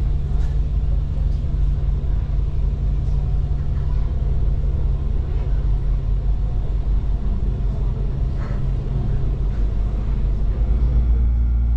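Regional passenger train running: a steady low rumble with a few faint clicks.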